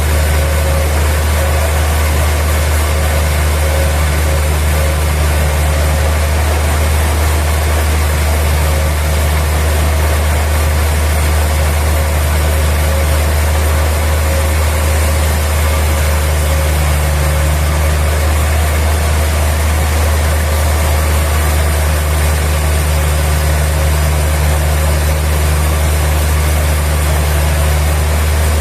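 An engine or heavy motor running steadily with a constant low drone, unchanging in level.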